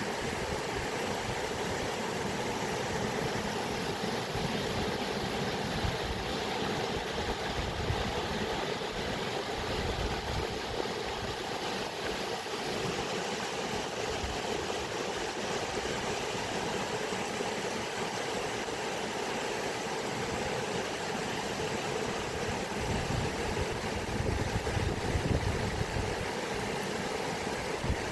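Steady rushing of flowing water, an even, unbroken wash of sound with a slightly fluttering low rumble.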